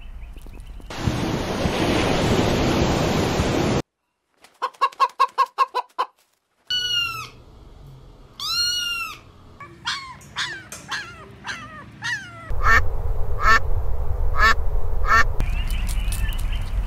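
Separate animal sounds cut one after another. In the middle a kitten gives two high meows that rise and fall, then a string of shorter falling calls. Before them comes a stretch of rustling noise and a quick run of short chirps, and after them a noisy stretch with sharp repeated calls.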